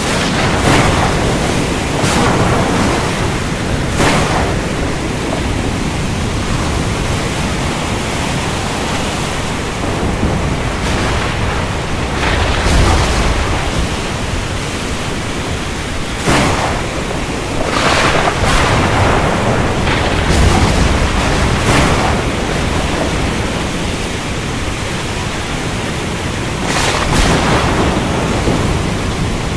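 Thunderstorm at sea: a steady rush of rain and surf, with deep rolls of thunder swelling twice and sharp cracks breaking through every few seconds.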